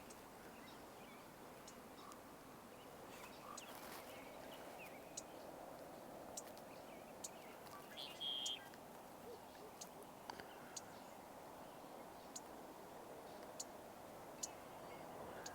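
Quiet outdoor ambience with a steady low hush and scattered faint ticks, and one short high bird call about eight seconds in.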